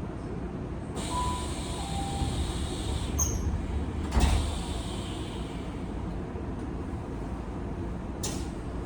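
Tokyu 5000 series train running between stations, heard inside the motor car: a steady rumble of wheels on rail. A hiss comes in about a second in, a sharp knock sounds about four seconds in, and a brief high hiss comes near the end.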